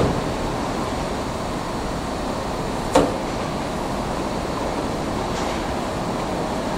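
Steady running noise of a 115 series electric train on track, with one sharp clack about three seconds in.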